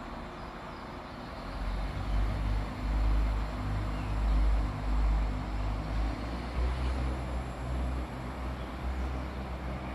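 Northern Ireland Railways 4000-class diesel multiple unit pulling away, its diesel engines giving a deep, uneven rumble that builds about a second and a half in.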